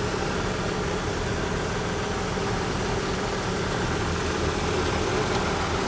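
1988 Dodge Dakota's 3.9-litre V6 engine idling steadily.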